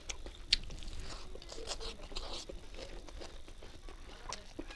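Close-miked chewing of a mouthful of food, with a couple of sharp crunchy bites in the first second, then softer wet chewing and lip smacks, and a few small clicks near the end.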